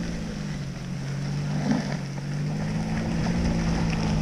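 SUV engine running at low speed on a rough trail, a steady low drone with wind and road noise over it, getting a little louder near the end.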